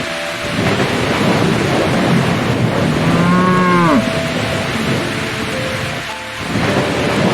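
A cow moos once, a call of about a second that bends down in pitch at the end, over a steady rush of rain with thunder rumbling.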